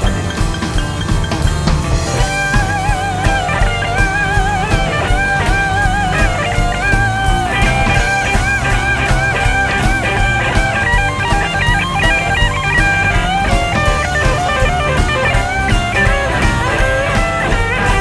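A rock and roll band playing live through an instrumental break: a lead guitar plays held, bent notes with vibrato from about two seconds in, over drum kit and bass, with no singing.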